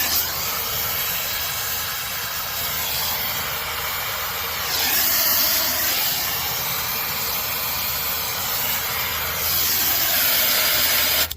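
Brazing torch flame hissing steadily while filter dryers are brazed into a heat pump's copper line set, stopping abruptly near the end.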